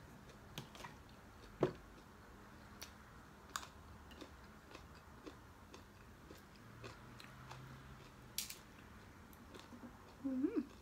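Close-up chewing and biting of food eaten by hand, with scattered small clicks and crunches, the sharpest about one and a half seconds in. A short pitched sound comes near the end.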